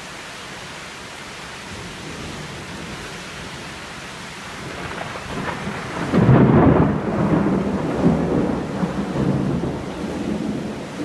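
Steady hiss of rain, then a thunderclap builds from about five seconds in, loudest about a second later, and keeps rumbling and rolling to the end.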